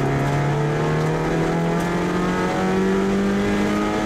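Kia Ceed rally car's engine heard from inside the cabin, accelerating hard in one gear with its pitch climbing steadily.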